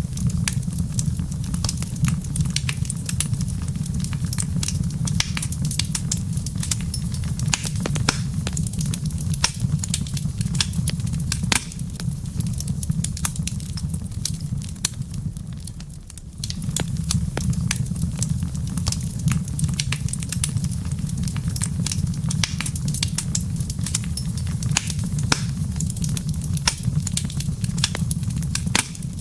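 Wood fire crackling, with many small sharp pops and snaps over a steady low rumble. The rumble fades about twelve seconds in and comes back suddenly a few seconds later.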